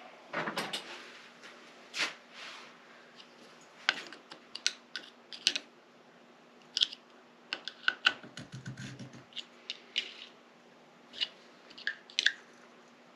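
Irregular sharp clicks and taps of hand tools and small metal engine parts being handled and set down during engine disassembly.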